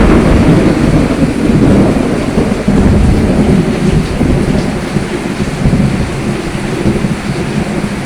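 Heavy rain with a thunderclap breaking just before, then a deep rumble of thunder that rolls on and slowly fades.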